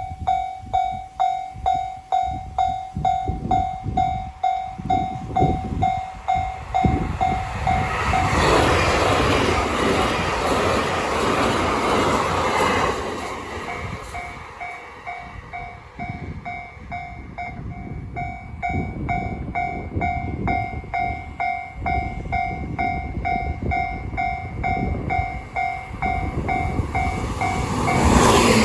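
Railway level-crossing warning bell ringing steadily about twice a second. From about 8 to 13 seconds in, the rush of a passing train covers it. The bell rings on afterwards, and another rush of train noise swells right at the end.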